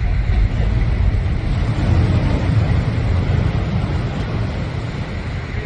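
Strong storm wind buffeting the microphone: a loud, gusting low rumble with a hiss above it and no break.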